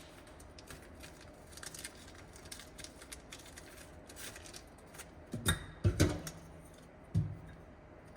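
Small metallic clicks and rustles of screws and parts being handled by hand, with three louder knocks in the second half.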